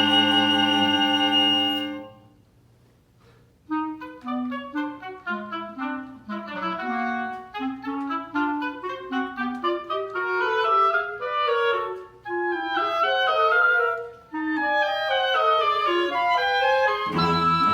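Woodwind chamber music. A held chord breaks off about two seconds in, followed by a brief pause, then fast running woodwind lines of quick short notes. Low cello-range notes come in near the end.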